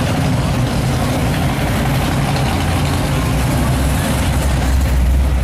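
Engines of parade cars running at low speed, a deep steady rumble that swells louder near the end as a car passes close.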